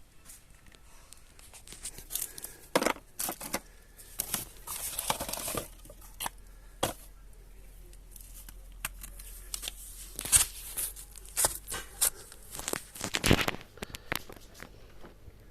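Irregular rustling, scraping and sharp clicks of objects being handled, with no motor running.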